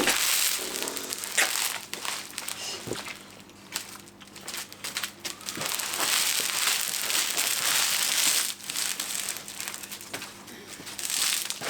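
A roll of roofing felt being unrolled and handled, its stiff surface crinkling and crackling, loudest at the start and again from about six to eight and a half seconds in.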